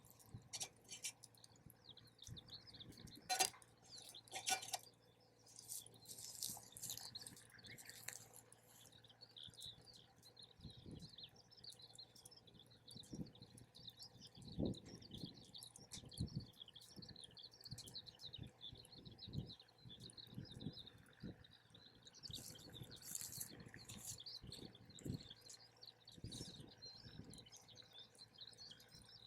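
Wood campfire crackling with scattered sharp pops, the loudest about three and a half seconds in, while birds chirp in the background.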